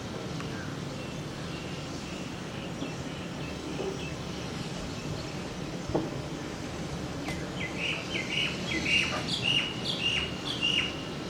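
A bird calling in a quick run of short, high chirps from about seven seconds in, over a steady low background rumble.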